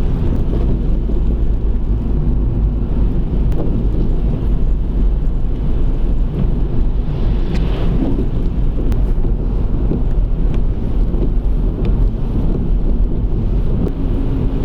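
Car driving uphill at steady speed, a constant low road and engine rumble heard from inside the cabin, with a few faint ticks.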